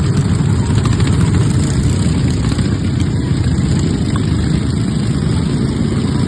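Riding lawnmower engines running steadily, a dense low rumble.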